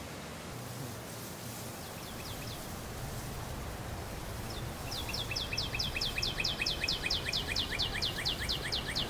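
A bird calling in a rapid run of short, falling chirps, about six or seven a second, starting about five seconds in after a brief run of four earlier, over a steady background hiss.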